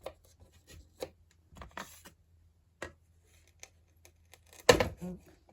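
Light taps and clicks of small painted wooden pieces being handled and fitted onto a wooden decor truck, with one louder knock near the end.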